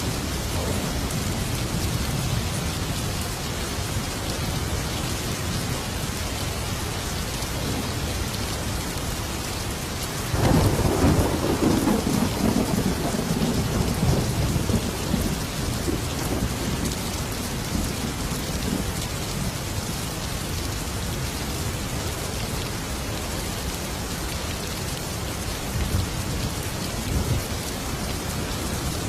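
Heavy rain falling steadily during a thunderstorm. About a third of the way in, a sudden clap of thunder breaks into a long rolling rumble that fades over several seconds, and fainter rumbles follow near the end.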